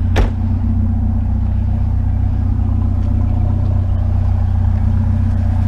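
A vehicle's engine idling with a steady low hum, and a single sharp knock just after the start.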